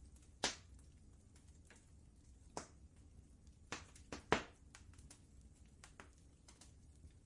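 Wood fire crackling in a fireplace, with scattered small ticks and sharper pops: one about half a second in, one at about two and a half seconds, and three close together around four seconds in, the last the loudest. A low steady rumble runs underneath.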